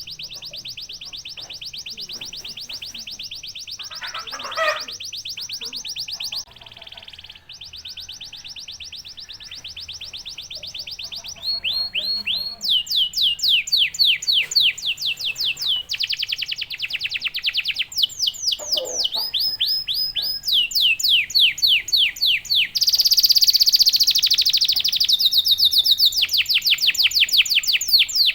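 Domestic canary singing a long, fast song of rolled trills: runs of very rapid repeated high notes, each held for a few seconds before switching to a new phrase. From about halfway the song gets louder, with sweeping, slurred notes.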